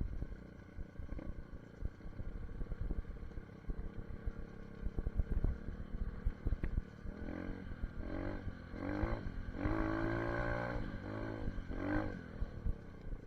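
SSR 150 dirt bike engine running, with a rumble and gusty knocking on the microphone. In the second half the engine revs up and back down several times.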